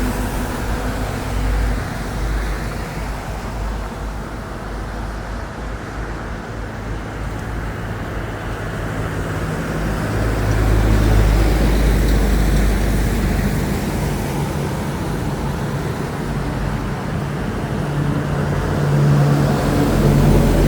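Excavator's diesel engine running, its pitch and level rising about halfway through and again near the end as it works under load.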